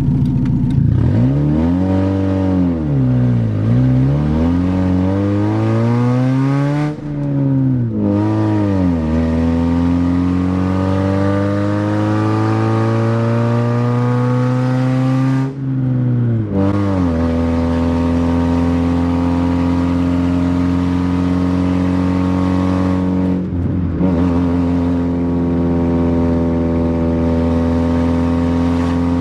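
1993 Saturn SW2's 1.9-litre twin-cam four-cylinder running on an open manifold, the exhaust coming straight out of the bottom of the manifold with no pipe after it. The engine revs down and up in the first few seconds, then its pitch climbs slowly with two brief breaks where it cuts out and comes back lower, and holds nearly steady in the last part.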